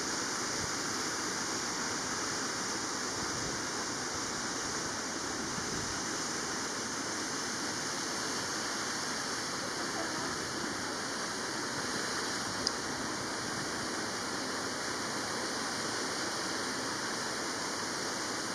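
Steady, even rushing of falling water, like an exhibit waterfall, with one brief click about two-thirds of the way through.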